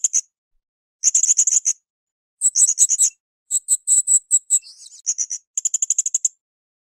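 Blue-crowned hanging parrot (srindit) singing: about five short bursts of rapid, high-pitched ticking notes in quick succession, separated by brief pauses, with a softer buzzy stretch midway.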